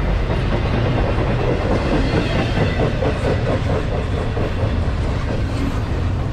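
Freight train cars rolling past with a steady rumble, their wheels clacking in a rhythm over the rail joints, most plainly in the middle.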